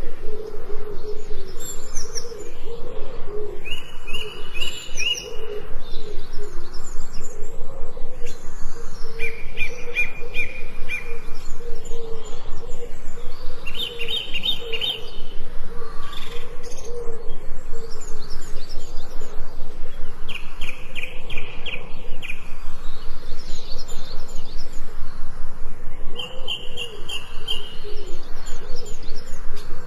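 Forest birds singing together, chirps and calls overlapping. One bird repeats a short, rapid trill about every five or six seconds.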